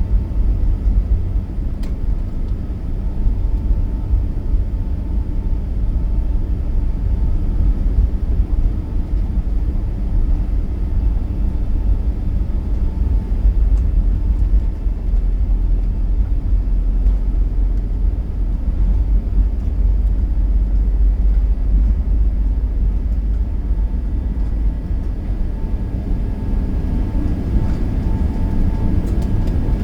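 Steady low rumble of an Airbus A380-800 airliner in flight, heard from inside the passenger cabin as engine and airflow noise, with faint steady tones above it.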